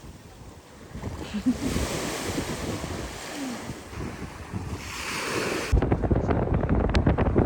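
Sea waves washing up on a beach in a steady rush. About six seconds in it cuts abruptly to heavy wind buffeting the microphone, a louder, gusty rumble.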